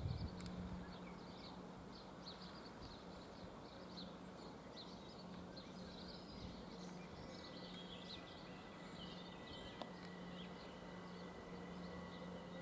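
Faint outdoor background noise with small birds chirping on and off, and a faint, slowly rising whine in the last few seconds.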